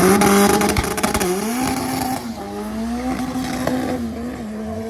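Drag-racing cars, a turbocharged Honda D15 and a BMW 750Li, launching and accelerating hard. Engine pitch climbs and drops sharply at gear changes about a second in and again just after two seconds, with a rush of tyre noise at the start.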